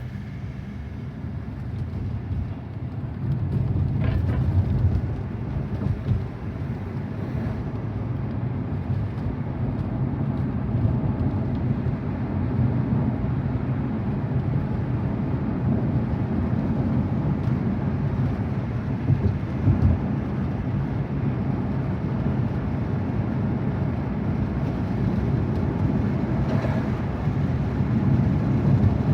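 Road and tyre noise inside the cabin of a moving electric Tesla Model Y: a steady low rumble with no engine note, growing louder over the first few seconds, with a few brief knocks along the way.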